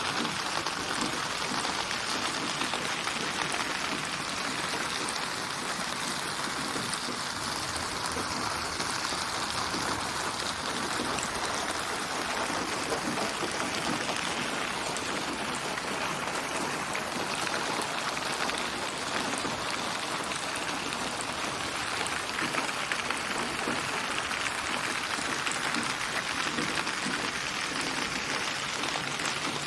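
Steady rain with a dense patter of drops, a synthetic ambience built from many rain recordings and placed around the listener with 8D (HRTF) spatial processing, in a version tuned to 432 Hz.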